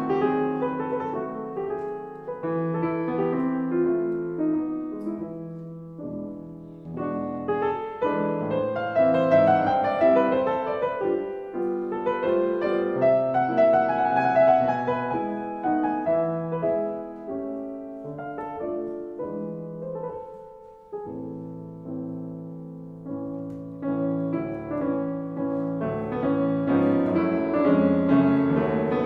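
Gentle solo piano music played in slow phrases that swell and fade, with a brief pause about two-thirds of the way through.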